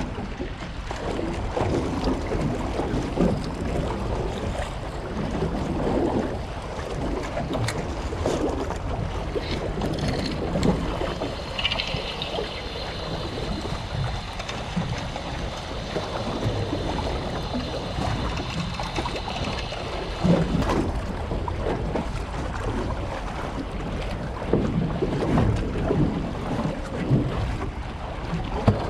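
Wind buffeting the microphone over sea surf, a continuous rough rumble. A steady high-pitched whine runs for about eight seconds in the middle.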